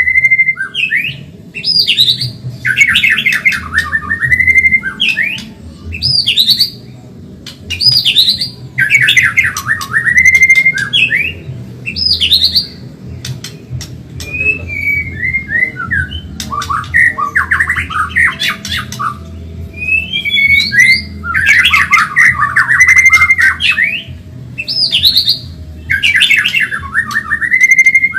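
White-rumped shama (murai batu, Medan type) singing loudly and continuously in fast phrases of rapid rising and falling notes, a new phrase every one and a half to two seconds.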